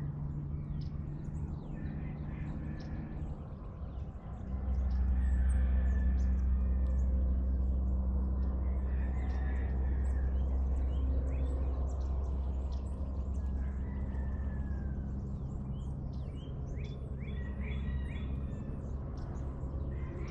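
Birds chirping and calling in the dawn chorus over a steady low mechanical drone, which gets louder about four seconds in and stays up.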